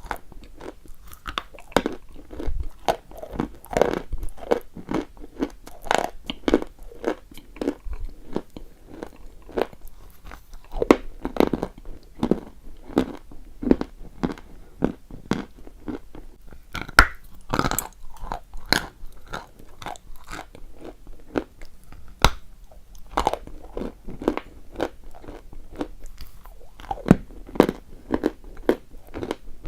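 Close-miked crunching as a person bites and chews chalk: dense, irregular crunches and crackles, with a handful of louder, sharper bites scattered through.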